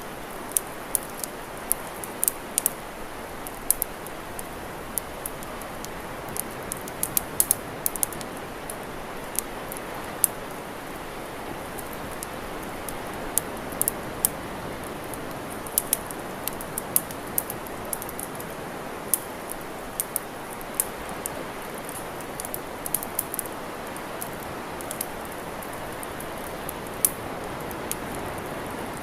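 Wood campfire crackling: irregular sharp pops and snaps, some clearly louder than others, over a steady rushing hiss.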